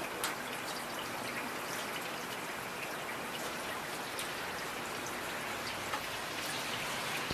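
Steady rain with individual drops ticking sharply on a surface; one louder drop hits just after the start and another about six seconds in.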